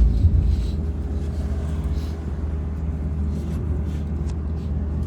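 Interior of a MAZ-203T70 electric trolleybus rolling along: a steady low hum and road rumble, with a few faint light rattles.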